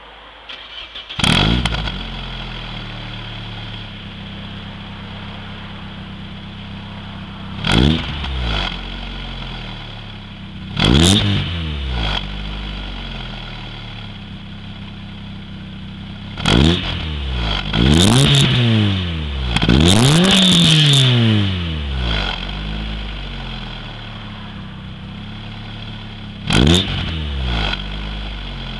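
Opel Astra GSi's C20XE 2.0 16-valve four-cylinder engine through an FK-Automotive aftermarket exhaust, starting about a second in and then idling between a series of sharp throttle blips, each rev rising and falling quickly, the longest held briefly about two-thirds through.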